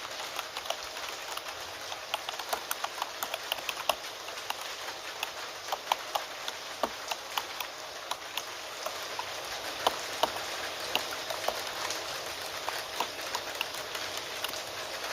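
Computer keyboard typing, irregular key clicks several a second, over the steady hiss of falling rain.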